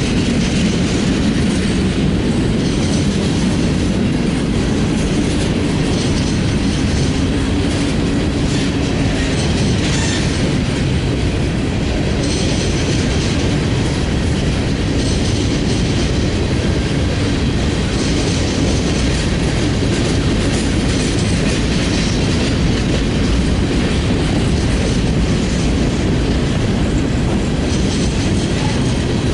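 Freight train cars rolling past, steel wheels running steadily on the rails.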